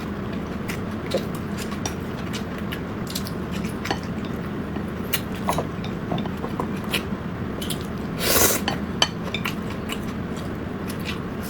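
Eating at a table: chopsticks and utensils clicking and clinking against bowls and plates, with chewing, over a steady low hum. About eight seconds in comes a louder half-second rush of noise.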